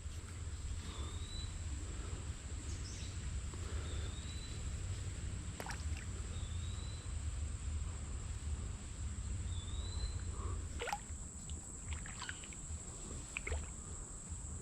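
Outdoor ambience: a low rumble that eases off about eleven seconds in, under a steady high insect drone. Four short rising chirps and a few sharp clicks come through over it.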